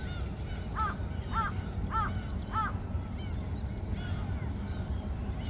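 A flock of gulls calling, many short squawks overlapping. One gull gives four loud calls in a row about half a second apart, starting about a second in. A steady low rumble runs underneath.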